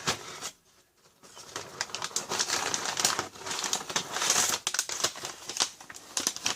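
Crackling, rustling handling noises, with many small irregular clicks starting about a second and a half in, as the unscrewed oil filter cover and its filter element are worked out of the housing under a cloth.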